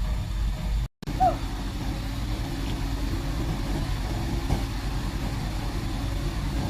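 Heavy diesel engine running steadily at low revs, cut by a brief gap of silence about a second in.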